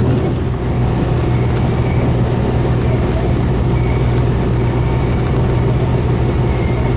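Diesel railcar's engine running with a steady low drone, heard from inside the train.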